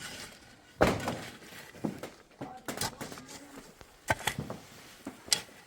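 A series of irregular knocks and thuds, about six, the loudest about a second in.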